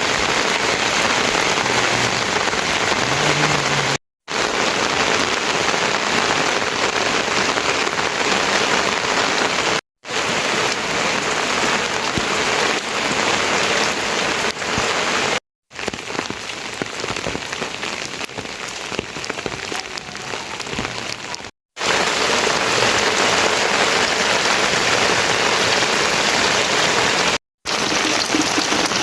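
Heavy rain falling steadily, a dense hiss of rain. It comes in several short takes that are split by brief silent gaps about every six seconds, and one take in the middle is quieter.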